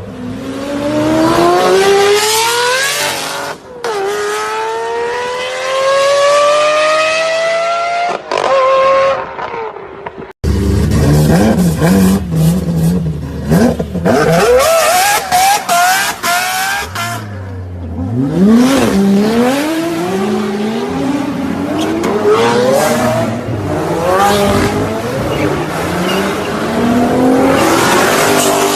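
Lamborghini engines and exhausts at full throttle: a hard acceleration whose pitch climbs steeply and drops at two upshifts, then after an abrupt cut a run of short, sharp rev blips, then more rising acceleration runs.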